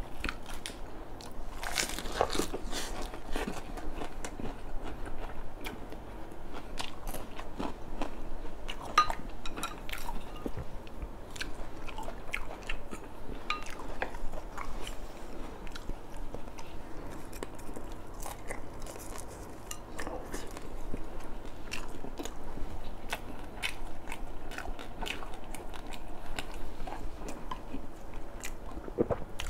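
A person chewing food close to a clip-on microphone: irregular crunches and mouth clicks of eating throughout.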